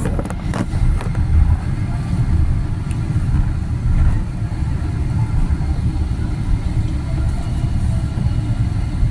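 Steady low rumble inside the cabin of a Boeing 777-300ER, with a few faint clicks about half a second in.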